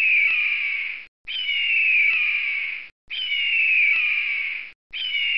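Eagle screech: a harsh, raspy scream that slides downward in pitch, the same call repeated four times in a row with short gaps between.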